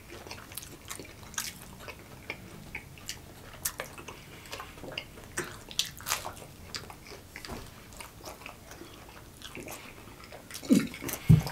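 Chewing and biting into chicken nuggets up close: irregular wet mouth clicks and smacks, with a couple of louder, lower sounds near the end.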